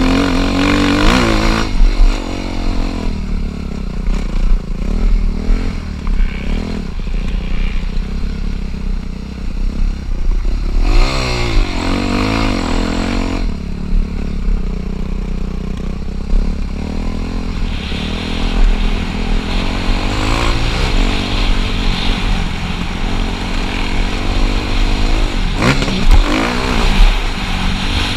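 Dirt bike engine revving on a motocross track, with the revs rising and falling repeatedly as it accelerates and backs off.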